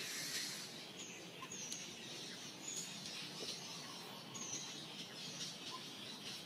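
Birds chirping: short high chirps every second or two over a steady background hiss.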